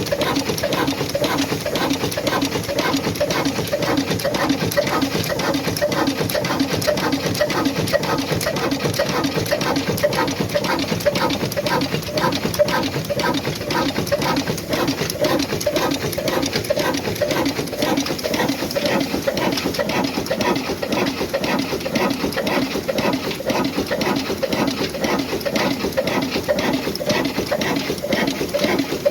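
Old black Ruston diesel engine running steadily with an even, rhythmic beat.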